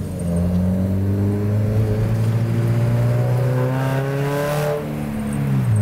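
Car engine heard from inside the cabin over a steady low drone, climbing slowly in pitch as the car accelerates, then dropping back near the end.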